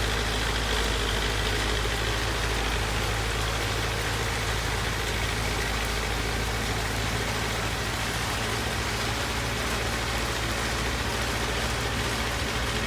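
Steady heavy rain falling, an even hiss with a low steady hum beneath it.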